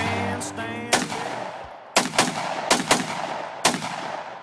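Smith & Wesson M&P15 Sport AR-15 rifle firing 5.56 rounds: about six sharp shots, some in quick pairs, each with a short echo tail.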